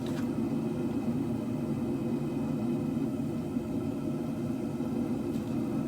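Propane forge burners running steadily, a constant low rush of gas flame with no change in pitch or level.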